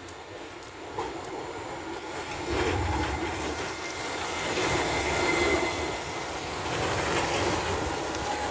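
Tram passing on its rails, the running noise growing louder about two and a half seconds in, with thin steady squeals from the wheels on the track.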